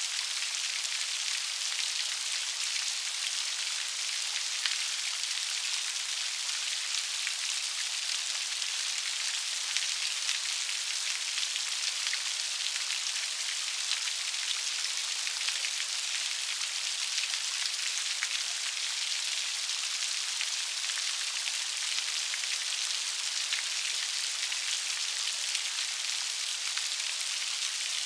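Steady rain falling, an even hiss of many fine drops with scattered sharper patters.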